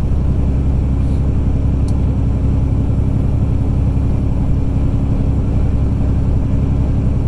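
A truck's engine running steadily under way, with road noise, as heard from inside the cab: a constant low drone.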